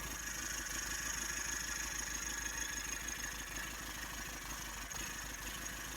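Toyota 1KZ-TE four-cylinder turbo-diesel idling rough and missing. Cylinder 2 is misfiring, traced to its exhaust valve having next to no valve clearance.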